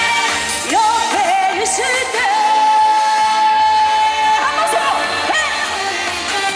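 A woman singing a trot song live over a pop backing track, sliding up into a long held note that lasts about two and a half seconds in the middle.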